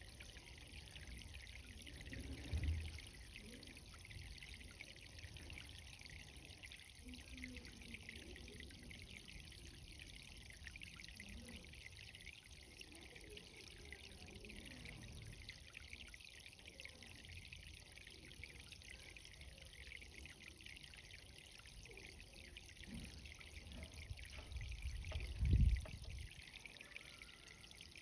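Irrigation water running and trickling steadily in a vegetable garden bed, a continuous fine hiss of water. Two brief low thumps break in, about two seconds in and again near the end, the second louder.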